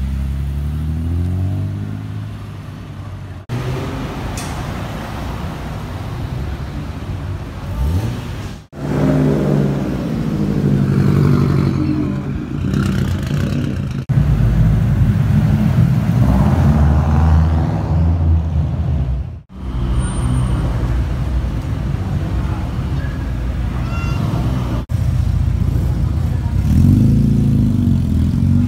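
A string of short clips of different car engines revving and pulling away, each cut off abruptly after a few seconds. The pitch rises as each car accelerates. The cars include a vintage Mercedes-Benz roadster near the start, a Subaru Impreza WRX in the middle and a classic Mini near the end.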